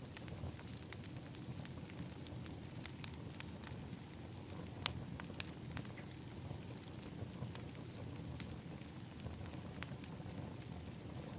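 Wood fire in an outdoor fire pit crackling: scattered sharp pops and snaps over a steady low rush, the loudest pop about five seconds in.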